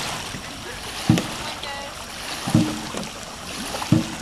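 Dragon boat crew paddling in unison at an easy pace: a short low thump on each stroke, three in a row, about a second and a half apart, over the wash of water.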